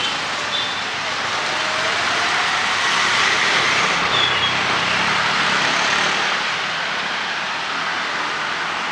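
A road vehicle passing on a wet street, its tyre hiss swelling to its loudest about three to five seconds in, then easing.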